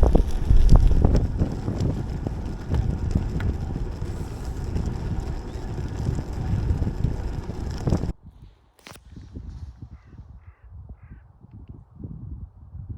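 Wind buffeting the microphone over the road noise of a bicycle riding, cutting off abruptly about eight seconds in. Then it is much quieter, with one click followed by three short caws from a crow-type bird, about half a second apart.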